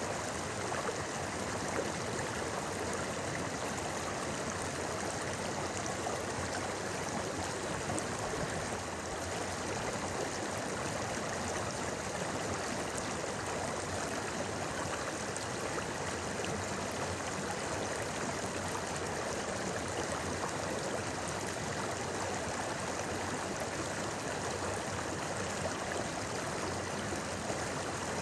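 Clear river or stream flowing and babbling steadily over rocks, a continuous even rush of water.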